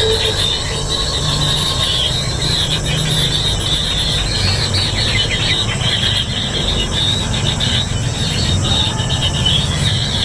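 Kingfisher nestlings giving a continuous chorus of rasping, high-pitched begging calls, with a steady low hum underneath.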